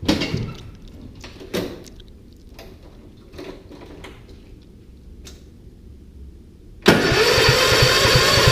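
A few knocks and clicks, then about seven seconds in a Toro mower engine catches suddenly and runs steadily: a cold start after sitting all winter.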